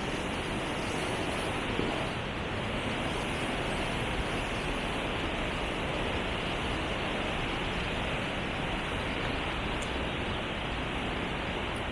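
Steady rush of the Truckee River's flowing water.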